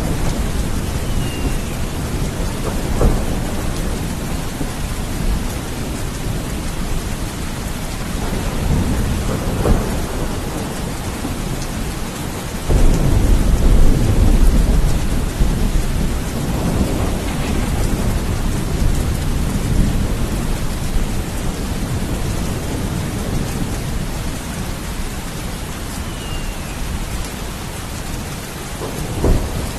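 Steady heavy rain with rolling thunder: a sudden loud rumble about halfway through, and weaker rumbles early on and near the end.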